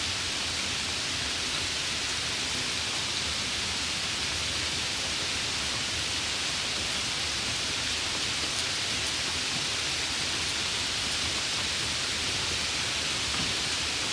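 Steady, continuous rain falling, an even hiss without breaks.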